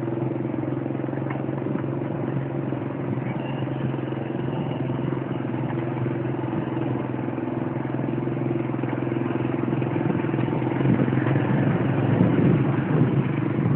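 Steady hum of a motor vehicle's engine running, with a clattering rattle growing louder in the last few seconds.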